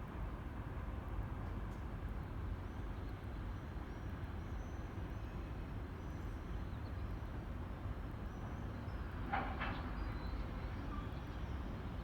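Low, steady rumble of a TEP70 diesel passenger locomotive's V16 diesel engine running, with a brief sharper sound a little over nine seconds in.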